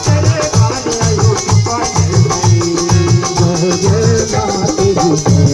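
Instrumental break in a Pahadi devotional folk song (bhajan): a steady, rhythmic drum beat under a melody line, with a shaker-like rattle on each beat.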